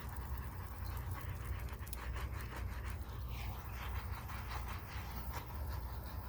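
Quick, repeated panting breaths over a steady low hum.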